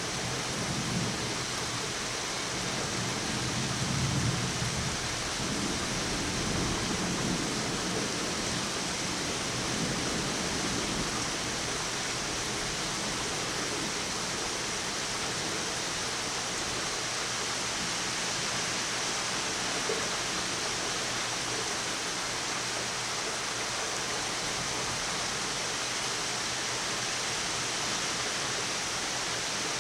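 Heavy rain pouring steadily during a severe thunderstorm, with a low rumble of thunder rolling through the first third that is loudest about four seconds in, then dies away.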